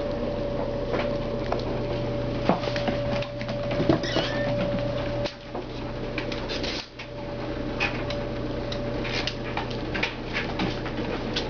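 Kittens scampering and tussling, with small patters, scuffles and clicks throughout, over a steady hum.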